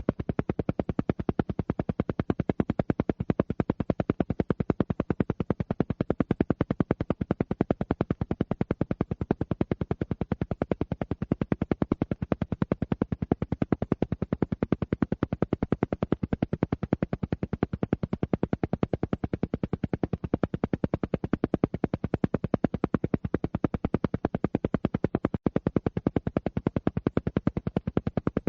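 Alpha-wave pulsed tone track: short, even pulses repeating about ten times a second without pause, the rapid rhythmic beat used for alpha brainwave entrainment.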